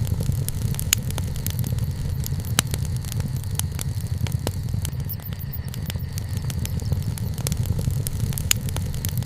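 Wood campfire crackling, with irregular sharp pops and snaps, several a second, over a steady low rumble.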